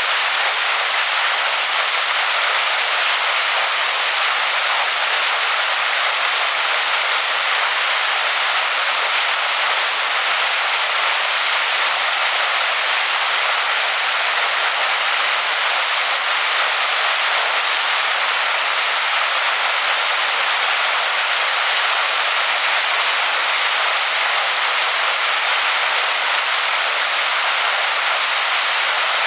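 Waterfall rushing over rocks: a steady, even roar of falling water with little low rumble.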